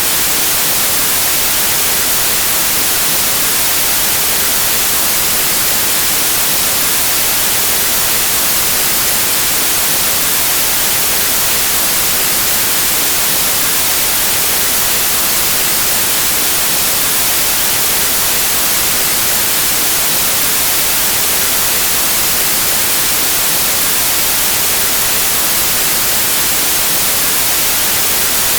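Steady, loud white noise: an even static hiss with no change in level or pitch, bright and heavy in the treble.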